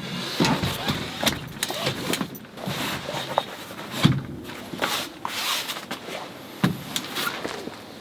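Irregular knocks, clicks and rustling as things are handled and set down, with sharper knocks about four seconds in and again near seven seconds.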